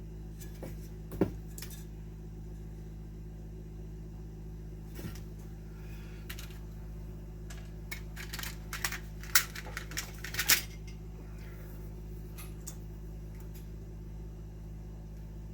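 Hand tools clicking and snipping as 14-gauge copper wire is cut and stripped: scattered sharp metallic clicks, thickest a little past the middle, over a steady low hum.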